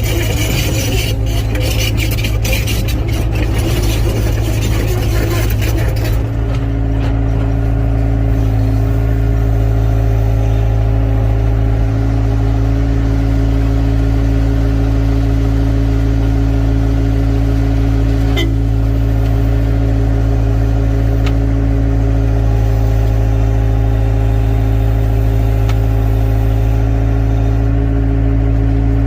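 Hydraulic excavator's diesel engine running steadily at constant speed. For the first six seconds or so, scraping and clattering rides over it, then the engine note continues alone.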